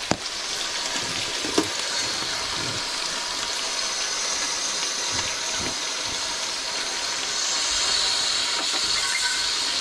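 Panko-coated beef burger patties sizzling as they shallow-fry in hot beef dripping, a steady frying hiss with a couple of light clicks. The sizzle grows louder near the end as the patties are turned with tongs.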